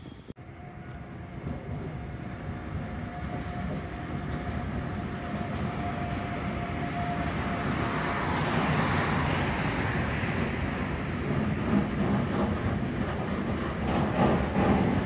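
A container freight train's wagons rolling past on the rails, the rumble and rattle growing steadily louder as the train draws near, with a thin steady whine for the first several seconds. Near the end the wheels clatter rhythmically over the rail joints.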